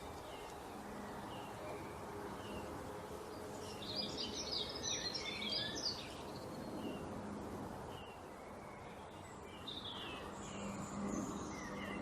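Small songbirds calling over a steady background hiss: one bird repeats a short chirp a little more than once a second, with a burst of rapid high twittering about four seconds in and another near the end.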